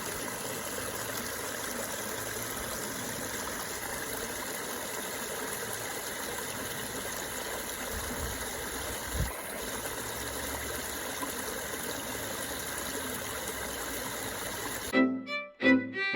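A steady, even hiss, then string music starts suddenly near the end and is louder.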